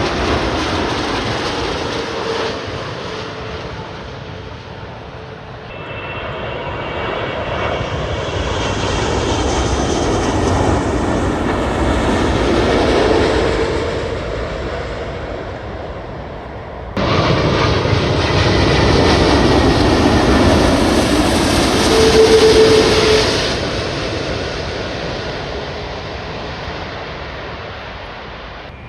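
Jet airliners flying past, a loud rush of engine noise that swells and fades. The sound changes abruptly twice, about a quarter and about three fifths of the way through, as it cuts from one pass to the next.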